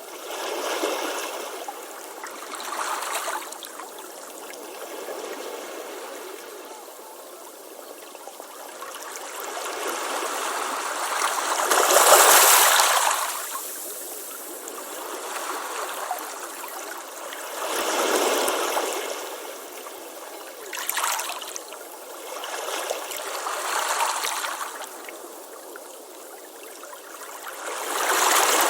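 Ocean waves breaking on a beach and washing back, in swells every few seconds, the biggest wave crashing about twelve seconds in.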